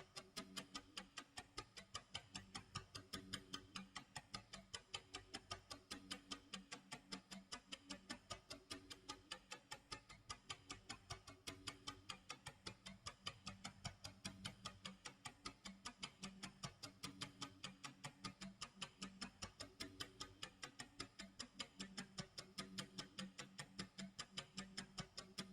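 Clock tick-tock sound effect of a countdown timer: quiet, evenly spaced ticks repeating steadily.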